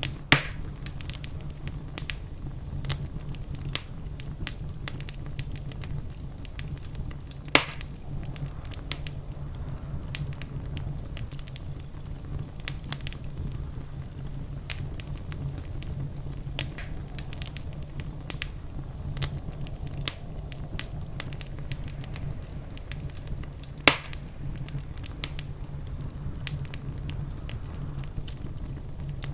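Wood fire burning in a fireplace: a steady low rumble of flames with constant small crackles and three loud pops, one right at the start, one about a third of the way in and one near the end.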